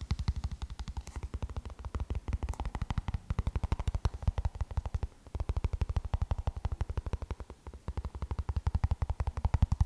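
Rapid tapping on a hard object, about ten taps a second, pausing briefly twice.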